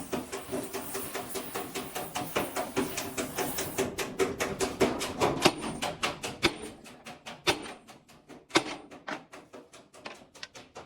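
Rapid, even hammer blows on a rivet in a steel truck frame, about five strikes a second, with a few harder strikes among them; the blows grow lighter in the second half.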